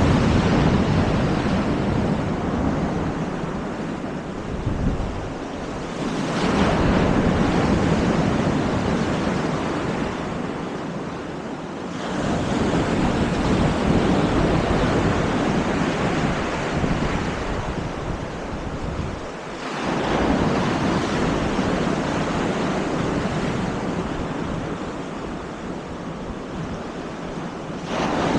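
Baltic Sea surf: waves breaking and washing up the beach, swelling about every six to eight seconds, with wind buffeting the microphone.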